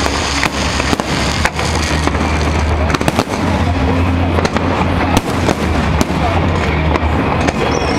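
Aerial fireworks display: many sharp bangs at uneven intervals over a continuous rumble and crackle.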